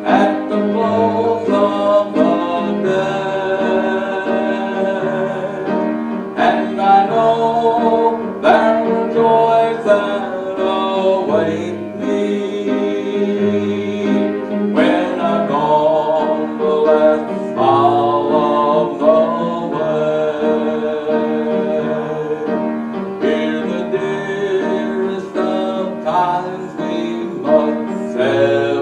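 Hymn music on piano and keyboard, sustained chords changing every second or two over a moving bass line, with singing voices possibly blended in.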